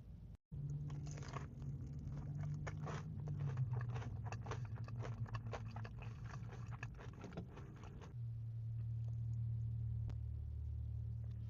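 Close-miked eating: a run of crunchy bites and chewing that goes on for about seven and a half seconds, then gives way to a steady low hum with only scattered chewing.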